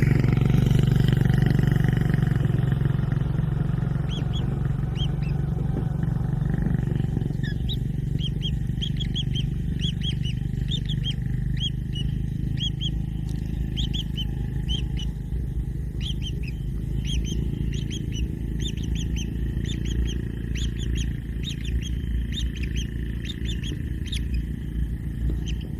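A steady low rumble, with many short, quick bird chirps from about four seconds in.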